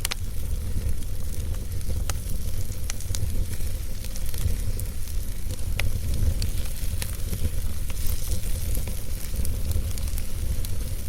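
Wood fire burning in a fireplace: a steady low rumble and hiss from the flames, with irregular sharp crackles and pops from the logs, the strongest right at the start.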